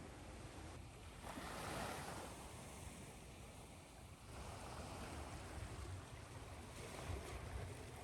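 Ocean surf: waves washing in and drawing back, swelling about two seconds in and again from about five seconds on.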